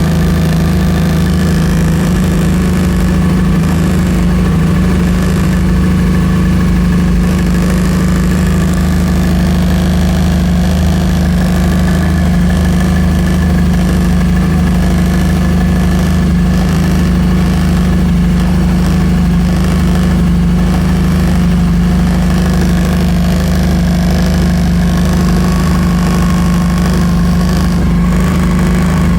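Vehicle engine running steadily with a constant low hum and a steady higher buzz. The noise is taken for an abnormal noise from the instrument cluster.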